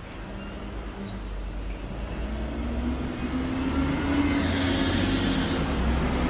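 A car driving, heard from inside the cabin: engine hum and road rumble growing steadily louder as it picks up speed.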